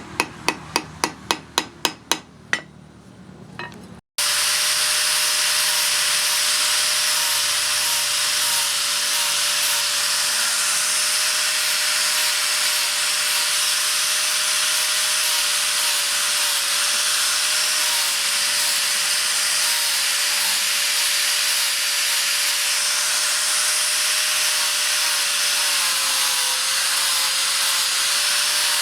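A hammer strikes steel rapidly, about four blows a second, for a couple of seconds. Then a power grinder runs steadily against a steel knife blade, a continuous loud hiss over a steady whine.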